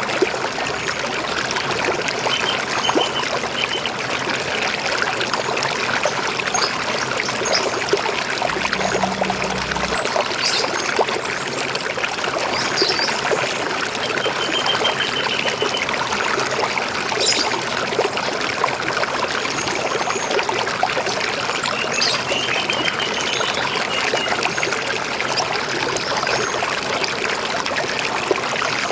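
River water flowing and gurgling steadily, with birds chirping in short runs a few times over it.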